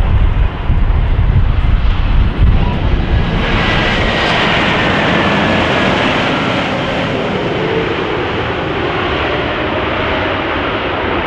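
Jet airliner passing close by with a loud engine roar. A heavy, gusty low rumble fills the first few seconds, then from about three seconds in a broad rushing roar takes over with a faint falling whine, settling into a steady roar.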